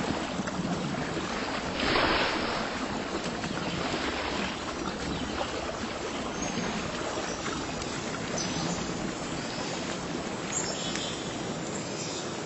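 Water washing steadily, like waves or lapping water, with one louder surge about two seconds in.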